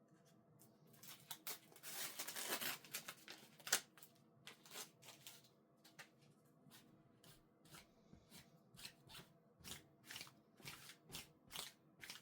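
Clothes being handled and folded: a longer stretch of fabric rustling about two seconds in, one sharp click, then a string of short, soft swishes of cloth.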